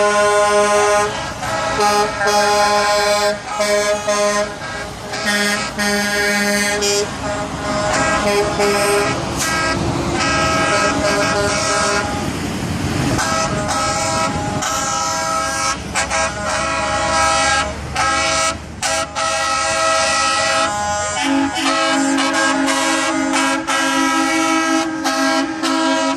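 Trucks in a convoy sounding their air horns: long overlapping horn blasts, broken into repeated toots, with the pitch of the chord changing as different horns take over. A stretch of truck engine and tyre noise comes about halfway through as a truck passes.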